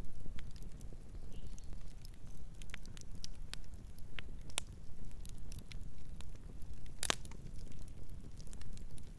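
Wood fire burning, with irregular sharp crackles and snaps over a low steady rumble of flames, and one louder pop about seven seconds in.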